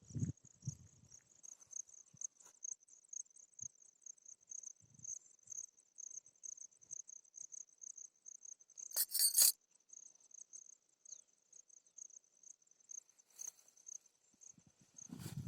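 Insects chirping in a steady, fast pulsing trill, high in pitch. About nine seconds in there is a brief loud burst of noise, and there are a few soft low thumps at the start and end.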